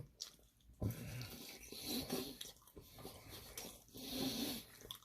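A person chewing and biting food close to the microphone, in uneven irregular bites.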